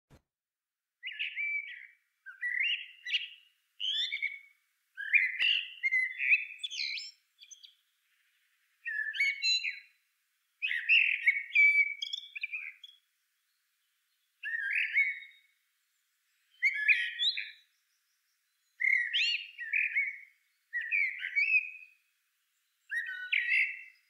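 Bird chirping: about a dozen short bursts of high chirpy notes, each around a second long, separated by brief silences.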